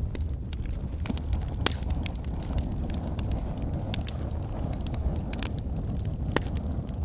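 Logs burning in a fireplace: a steady low rumble of the flames with irregular sharp crackles and pops from the wood.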